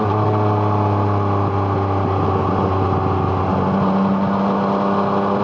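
Yamaha MT-09's three-cylinder engine breathing through an Arrow Thunder aftermarket exhaust, running under way at a steady, nearly constant pitch.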